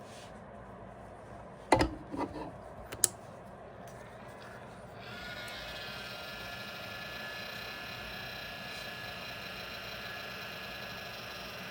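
A few sharp knocks of tools set down on the bench, then about five seconds in a heat gun switches on and runs with a steady whining hum, used to shrink heat-shrink sleeving over soldered wires.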